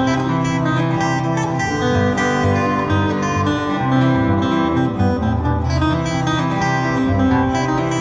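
Acoustic guitar playing an instrumental ragtime tune with a steady, busy picking rhythm.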